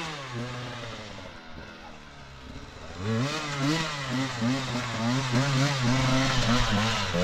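Dirt bike engine: a fairly steady note that fades for the first few seconds, then from about three seconds in it is revved up and down in quick repeated blips.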